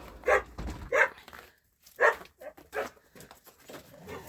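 Dogs barking, a series of short sharp barks about a second apart.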